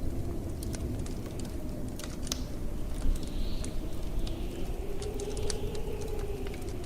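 Wood fire crackling, with scattered sharp pops over a steady low rumble of blizzard wind; a howling gust swells and fades in the second half.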